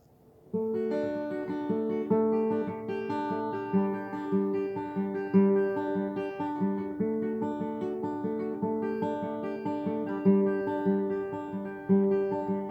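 Acoustic guitar playing the instrumental intro of a song, single notes ringing one after another in a repeating picked pattern. It starts about half a second in.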